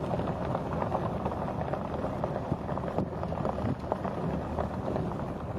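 Large flock of migrating geese calling all at once, a dense, continuous clamour of many overlapping honks, with a low rumble beneath.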